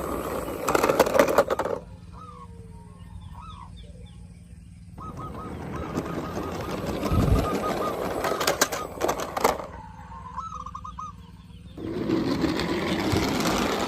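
Honking bird calls, goose-like, heard in short stretches that start and stop abruptly, alternating with louder noisy passages that carry a few sharp clicks.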